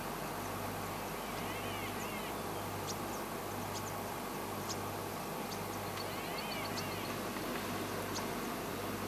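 Small wild birds calling: two bouts of quick zigzagging trilled notes and scattered short, high chirps, over a steady low hum and hiss.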